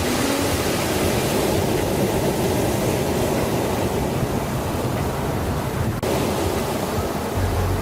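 Steady rushing noise, with a brief dip about six seconds in.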